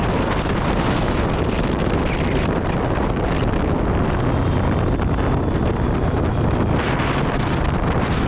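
Heavy wind buffeting on the microphone of a motorcycle at speed, with the Aprilia Tuono V4 Factory's V4 engine running steadily underneath.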